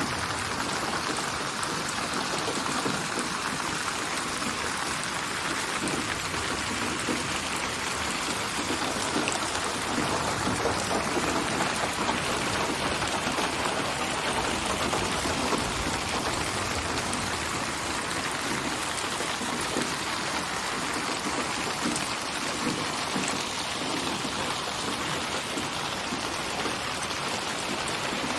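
Steady rain falling, a dense even patter of drops on surfaces, spatialised to seem to come from all around the listener.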